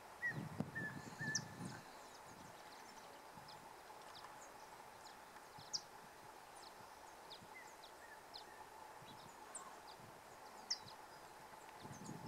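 Faint, high, short bird chips scattered throughout, with a few lower whistled notes in the first two seconds. A low rumble dies away about two seconds in and returns near the end.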